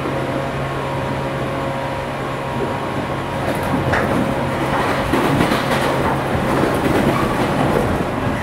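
JR 413 series electric multiple unit running along the line, its wheels clattering over rail joints above a steady low hum. The running noise grows louder about three to four seconds in.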